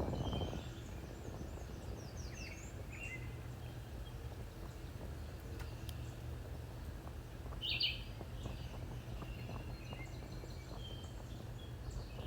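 Small birds chirping here and there, with one louder call about eight seconds in, over a steady low rumble.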